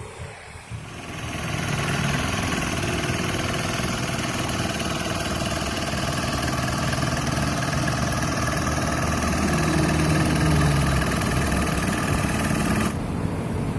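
Petrol brush cutter (string trimmer) engine coming up to speed and running steadily; the hissy top of the sound cuts off suddenly about thirteen seconds in.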